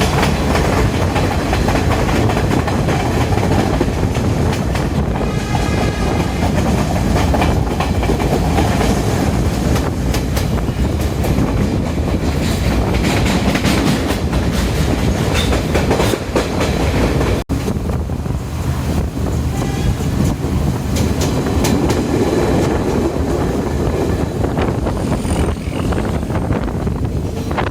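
Passenger train running along the track: a steady rumble with the clickety-clack of wheels passing over rail joints. The sound cuts out for an instant about two-thirds of the way through.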